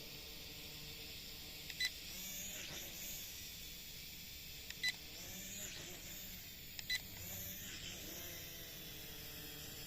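A JC801 toy quadcopter's small motors whining with a steady hiss, the pitch sliding up and down as it manoeuvres. Three short electronic beeps sound about two, five and seven seconds in.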